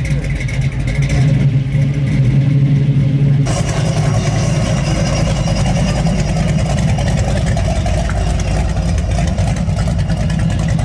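Chevrolet Camaro engine running with a steady low exhaust note. About three and a half seconds in, the sound cuts to a second Camaro, a 1968, rolling away slowly at low revs with a rougher exhaust note.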